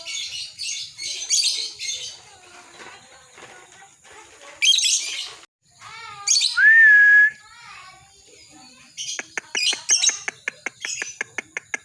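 Lovebirds chattering: a rapid pulsing trill for about the first two seconds, then softer chatter, a loud harsh call near the middle, a short whistle that rises and then holds, and a quick run of sharp clicks near the end.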